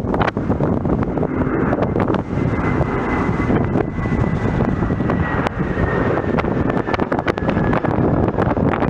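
Jet airliner passing, its engines heard as a steady rumble with a faint high whine that sinks slightly in pitch. Wind buffets the microphone throughout.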